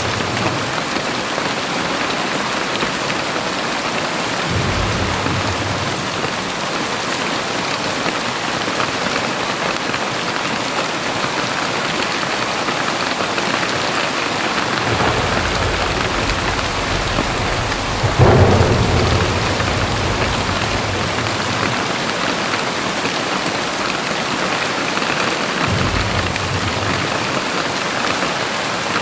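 Heavy rain falling steadily, with low rumbles of thunder and a sudden, louder crack of thunder about eighteen seconds in.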